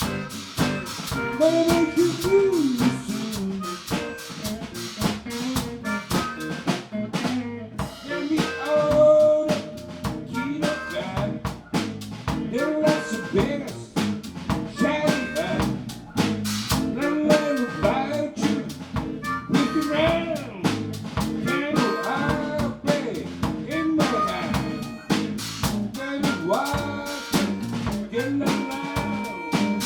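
Live band music: a drum kit keeps a steady beat under pitched instruments playing a melody.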